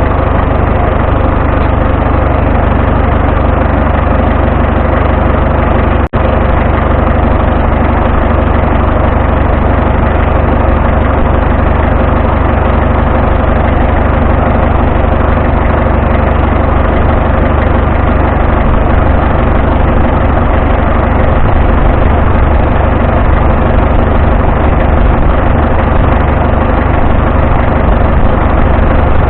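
Engine of a vintage farm tractor running steadily, heard loud and close. About six seconds in there is a brief click.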